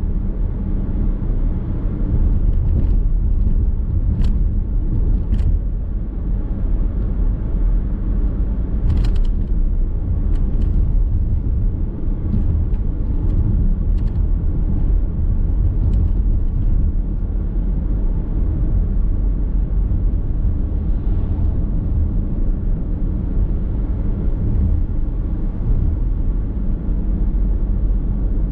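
Car interior driving noise at cruising speed: a steady low rumble of tyres and engine on the road, with a few brief faint ticks in the first half.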